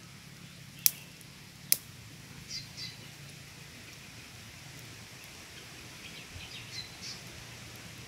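Birds chirping in short high calls, a few about two and a half seconds in and a cluster again near the end, over a low steady hum. Two sharp clicks come about a second apart early on and are the loudest sounds.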